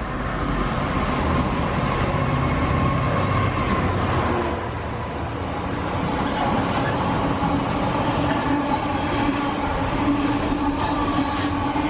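Freight train running past on the main line, a loud steady rush of wheels on rail with a humming tone underneath.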